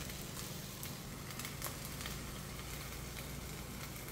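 Omelet frying in a ceramic-coated skillet, a faint steady sizzle with scattered small crackles over a low steady hum.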